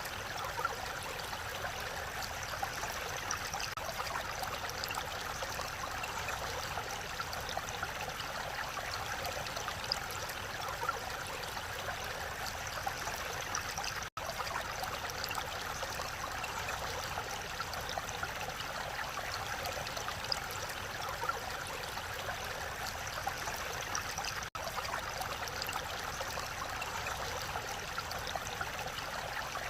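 Mountain valley stream, a steady wash of running water. It cuts out for a split second twice, once midway and once later on.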